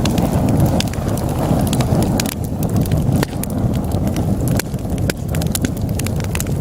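Wood logs burning in a fireplace: a steady low rush of flame with frequent, irregular sharp crackles and pops.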